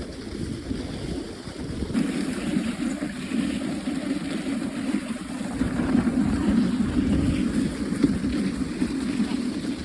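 Dog sled running along a snow trail: the runners sliding and rumbling over packed snow, with wind buffeting the microphone. It gets louder about two seconds in.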